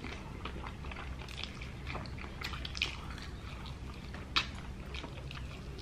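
Close-miked chewing and biting of fried chicken legs: scattered short clicks and crackles, one sharper click about four seconds in, over a steady low hum.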